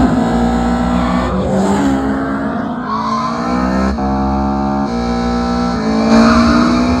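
Dubbed-in car engine sound effect accelerating hard through the gears: the pitch climbs, drops back at each upshift, and climbs again several times.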